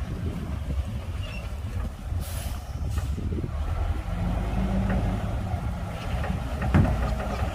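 Komatsu D58P bulldozer's diesel engine running with a low rumble, its note steadying for a couple of seconds in the middle. A brief hiss about two seconds in, and a few knocks near the end.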